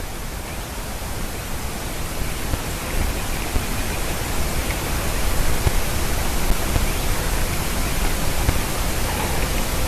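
Wind rushing and buffeting the microphone: a steady noise with a fluttering low rumble, growing a little louder over the first few seconds.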